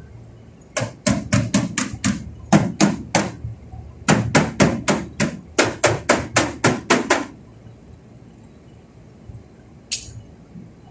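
Hammer blows struck in three quick runs, about four a second, then a single sharp click near the end.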